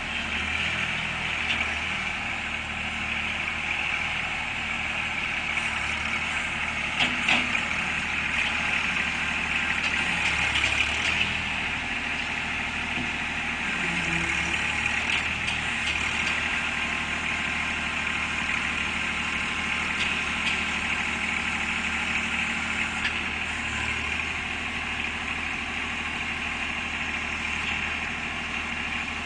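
A 25 hp tractor engine running steadily at low speed, with a few brief clicks.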